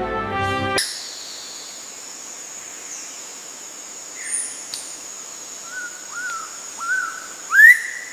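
Music stops under a second in, giving way to a bird calling over a steady high-pitched tone: a short high chirp, then three short whistled notes that rise and fall, then a louder rising call near the end.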